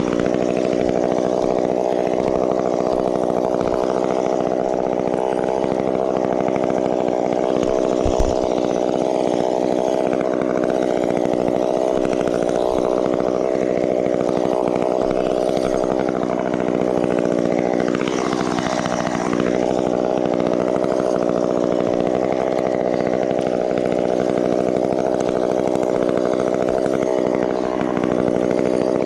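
Two-stroke chainsaw engine running steadily at high revs, its pitch dipping briefly and recovering about two-thirds of the way through.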